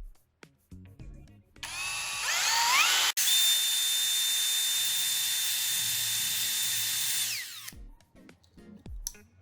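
Small electric motor spinning up with a rising whine, running steadily at one high pitch for about four seconds, then winding down near the end.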